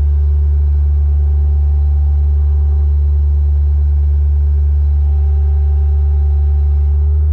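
Bobcat skid-steer loader's diesel engine running steadily, a loud, deep, even hum with no change in pitch.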